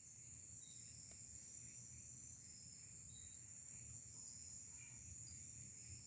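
Faint evening insect chorus: crickets holding a steady high-pitched drone, with softer repeated chirps underneath.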